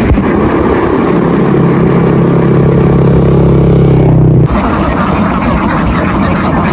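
A motor engine running at a steady speed, holding an even hum that stops abruptly about four and a half seconds in, over constant rough background noise.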